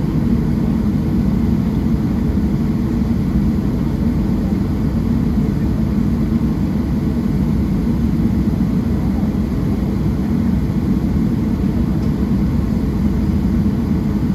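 Steady low rumble inside the cabin of a Boeing 737-700, its CFM56-7B engines running at an even power with no spool-up.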